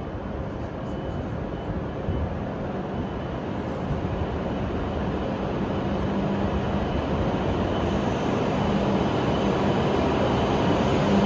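W7 series Shinkansen train pulling out of the station, its running noise growing steadily louder as it gathers speed past the platform, with a steady low hum underneath.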